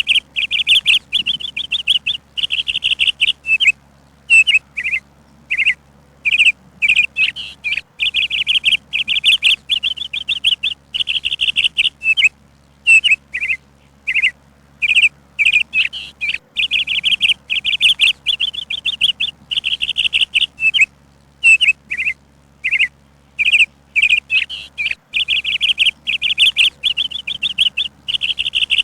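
A songbird singing: bursts of rapid, high trills alternating with short separate chirps, over a faint low hum.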